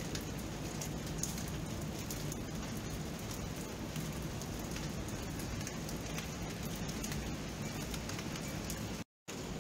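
Steady rain: an even hiss with many small raindrop ticks. The sound cuts out completely for a moment near the end, then resumes.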